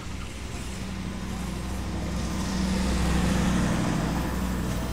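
Passenger coaches of a slow-moving train rolling past close by: a steady rumble of wheels on the rails with a low hum underneath. It grows louder to a peak about three seconds in, then eases slightly as the coaches go by.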